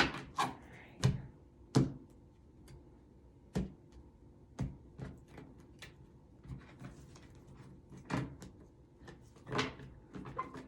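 Tarot cards being handled and set down on a table: about a dozen short, sharp knocks and taps at irregular intervals.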